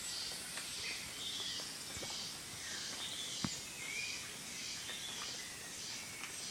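Pre-dawn tropical mountain forest: a high chirp repeating steadily, about three every two seconds, over scattered bird calls. Two soft clicks stand out a couple of seconds in.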